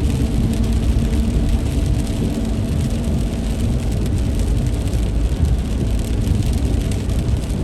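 Heavy rain hitting a moving car, heard from inside the cabin, over a steady low rumble of the car and its tyres on the wet road.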